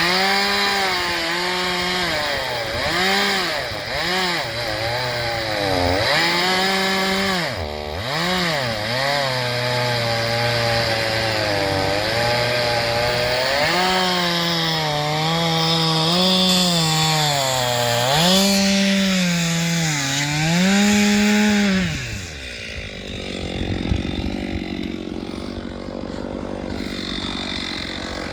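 A two-stroke chainsaw bucking logs. The engine revs high, drops in pitch again and again as it loads up or is throttled off, then comes back up. It falls away about 22 seconds in, leaving quieter background sound.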